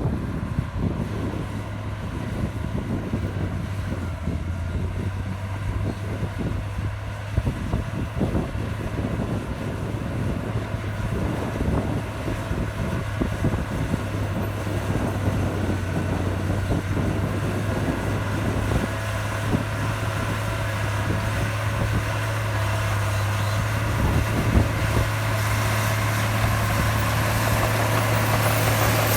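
Heavy earthmoving machine's diesel engine running with a steady low drone, growing gradually louder over the last few seconds.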